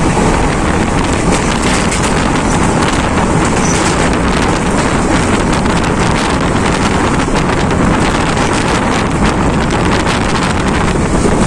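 Steady rushing noise of a moving passenger train heard from an open coach door: wheels running on the rails, with wind buffeting the microphone.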